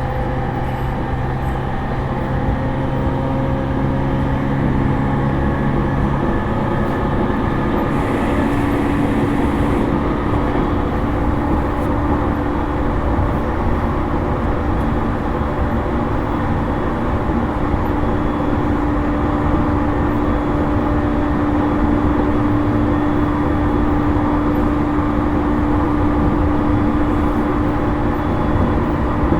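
JR East E231-series electric train running along the line, heard from inside motor car MoHa E231-1101: steady rail and wheel rumble with the traction motor hum. One low tone drops out about six seconds in, and a higher steady tone comes in about two seconds later.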